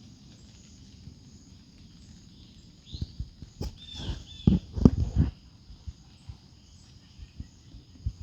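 Outdoor birds chirping in short repeated calls over a steady low background, with a cluster of loud dull thumps about halfway through.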